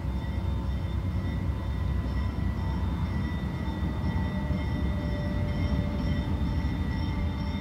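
A railroad train running, a steady low rumble with faint thin steady tones above it.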